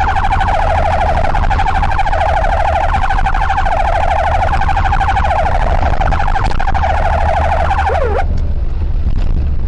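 Police car siren sounding a fast warble that cuts off a little past eight seconds with a short falling sweep. A steady low vehicle rumble runs underneath.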